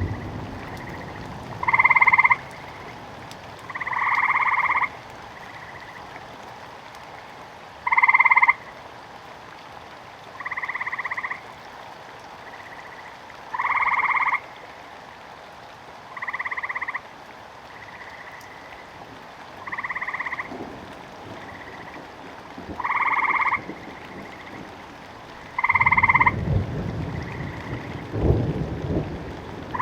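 Frogs croaking in rain: a loud short croak repeats about every two to three seconds, with fainter croaks between, over a steady patter of rain. Low rumbles of thunder come near the end.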